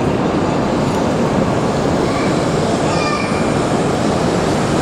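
A shinkansen bullet train moving along a station platform: a steady, loud rumble and rush of the train.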